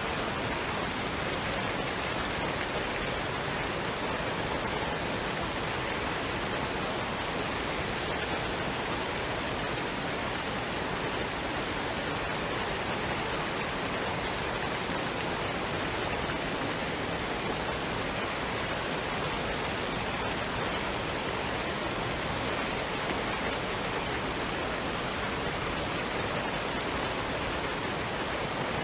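Waterfall and stream water rushing in a steady, even roar.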